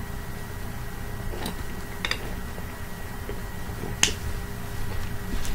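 A person eating garlic toast: a few faint crunches and mouth clicks over a steady low hum, with a sharper click about four seconds in.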